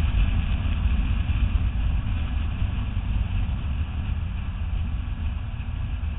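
Nissan GT-R's twin-turbo V6 running at speed on track, with a steady low rumble of engine and road noise that eases slightly over the last couple of seconds.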